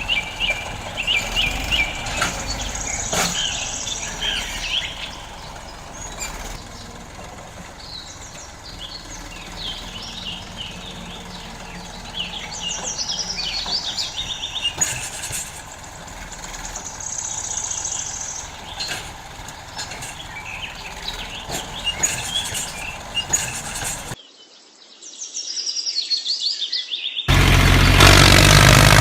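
Birds chirping again and again, with scattered sharp clicks and knocks. Near the end a loud engine begins running steadily.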